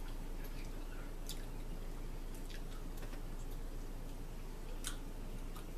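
Faint chewing and mouth sounds of a person eating, with a few soft clicks, over a steady low hum.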